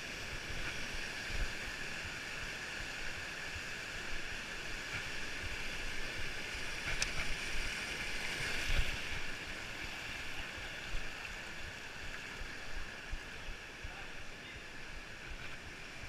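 Steady outdoor hiss with irregular low bumps and knocks: wind and handling noise on a body-worn action camera while walking a trail.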